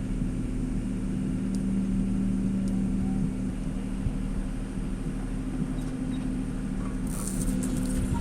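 Small engine of a compact machine running steadily, with a few even low tones and some rumble. Brief rattles and clicks come near the end.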